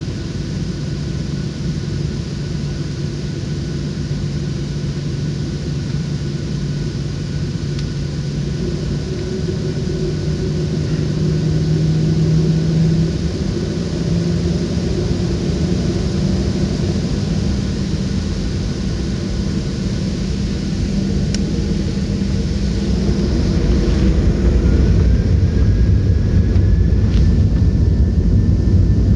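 Cabin noise of a Boeing 737-800 heard from inside the passenger cabin: a steady rumble with the hum of its CFM56-7B turbofan engines. About 23 seconds in the engine pitch rises and the sound grows louder as thrust is increased.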